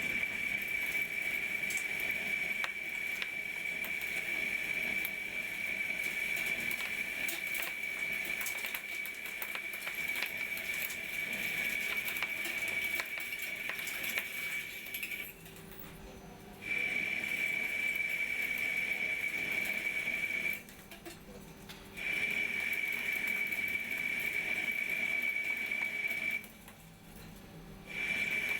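Takisawa TCN-2100 CNC lathe running: a steady high whine with ticking and rattling over it. The whine cuts out three times, about a second and a half each, in the second half.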